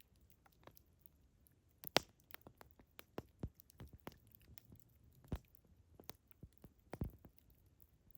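Campfire burning and crackling, with irregular sharp pops of burning wood; the loudest pop comes about two seconds in.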